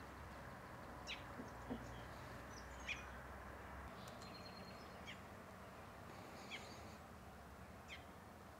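Faint birds chirping: a few short, high calls spread out every second or two over a quiet background.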